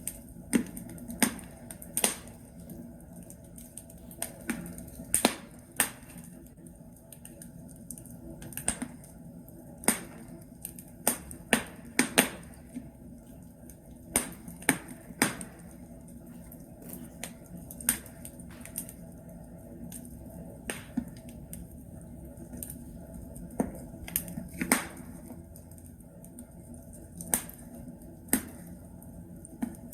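Wood logs burning in a fireplace, crackling with irregular sharp pops and snaps over a steady low rush of the fire.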